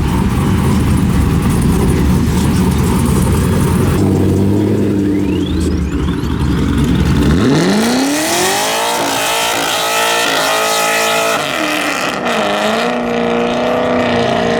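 Wide-body C6 Corvette Grand Sport's V8 sending it: a deep rumble, then about seven seconds in the revs climb sharply and hold high, with a brief dip and a rise again near the end.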